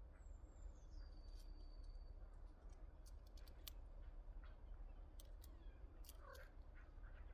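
Faint birds: a high whistled call that falls in pitch and then holds steady, followed by scattered sharp ticks and a few short low calls, over a steady low rumble.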